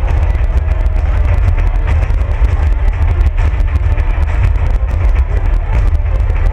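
Fireworks in a continuous barrage: many sharp bangs and crackles, close together, over a deep, unbroken rumble.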